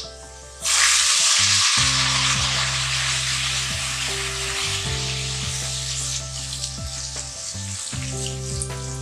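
Sliced onions and turmeric frying in hot ghee, a loud sizzle that starts suddenly about half a second in and slowly eases, while a silicone spatula stirs the pan. Soft background music with low held notes underneath.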